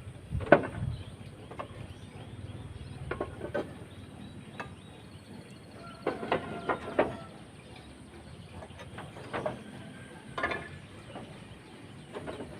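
Irregular knocks and clinks of roofing materials being handled during roof repair work, some hits ringing briefly. The loudest knock is about half a second in, with a cluster of clinks around six to seven seconds.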